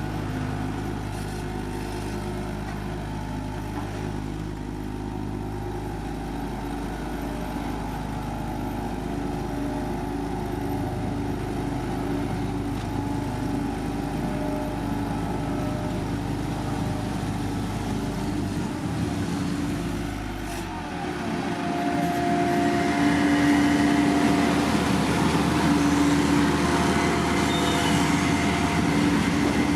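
Heavy road-paving machinery engines running steadily. About two-thirds of the way through, the engine sound shifts to a different, louder, higher-pitched tone, as one machine takes over from another or comes closer.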